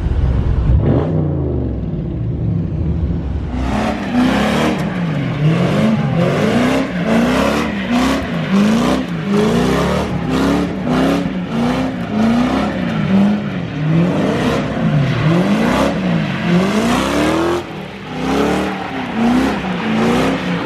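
A car engine revved hard again and again, its pitch climbing and falling about one and a half times a second. It starts about three and a half seconds in, after a lower engine rumble.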